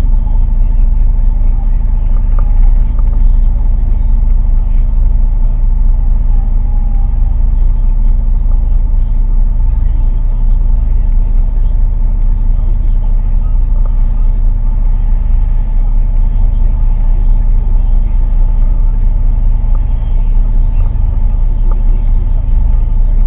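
An engine running steadily with a low, even drone that holds the same pitch throughout.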